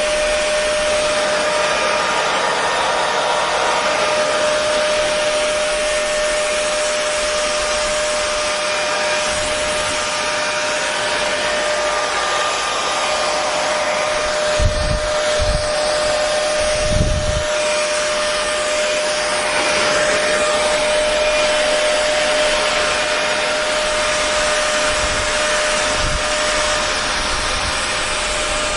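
Hair dryer running steadily: a continuous airy rush with a steady hum pitched in the middle of the range. A few soft low thuds come about halfway through.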